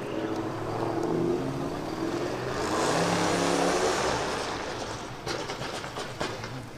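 A car engine accelerating, rising gently in pitch, loudest about three to four seconds in, then fading away as the car drives off.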